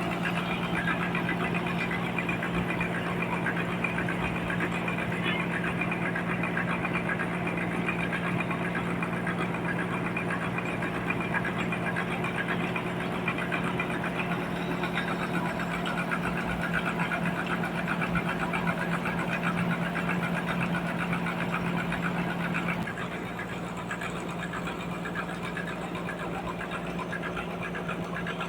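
Sawmill running steadily, with a strong low hum and a dense, fast rattle above it; about 23 seconds in the sound drops a step to a quieter steady run.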